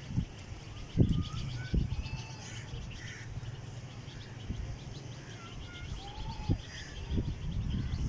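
Birds chirping with short whistled calls, with a few irregular low rumbling bursts, the loudest about a second in.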